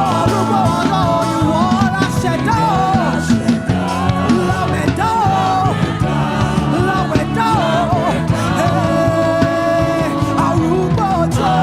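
Live gospel praise-and-worship music: a singer's voice gliding over a band with steady bass and sustained keyboard chords.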